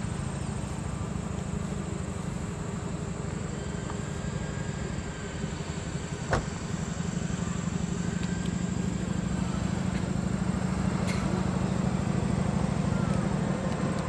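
A car engine idling steadily, getting a little louder through the second half, with a single sharp click about six seconds in.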